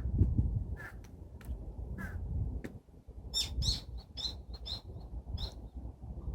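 Birds calling outdoors: a few short, harsh calls, then a quick run of about six sharper, higher-pitched calls about halfway through, over a low wind rumble.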